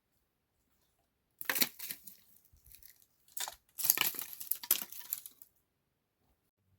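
Bursts of crunching, tearing noise: one about a second and a half in, a short one a little after three seconds, then a longer crackly run that ends near five and a half seconds.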